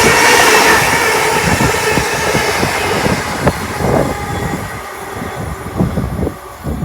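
A train passing at speed on the main line. Its loud running noise fades as it draws away, with wheels clattering over the track.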